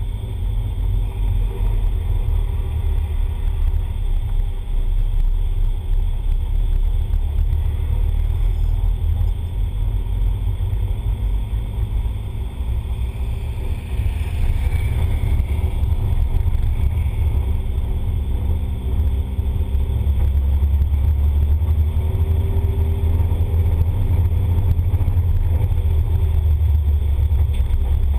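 Ford Laser TX3's turbocharged four-cylinder engine running steadily as the car is driven without hard acceleration, heard from a camera mounted outside the car, under a heavy low rumble. It gets a little louder in the second half, with a few slow rises in pitch.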